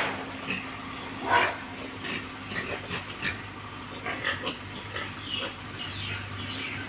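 Pigs squealing in short, scattered calls, with one louder squeal about a second and a half in.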